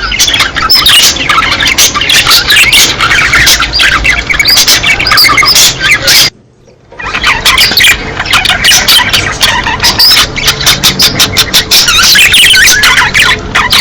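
A flock of budgerigars chattering and warbling loudly in dense, overlapping chirps and squawks: breeding-season calls. The sound cuts out briefly about six seconds in, then resumes.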